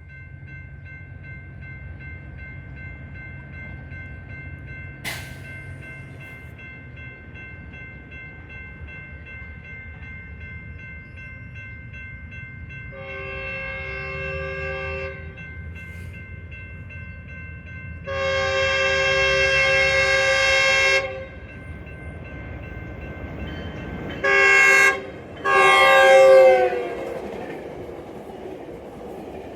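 Locomotive air horn sounding the grade-crossing pattern over a train's low rumble: two long blasts, a short one, then a final long blast whose pitch drops as the train passes. The second blast is the loudest.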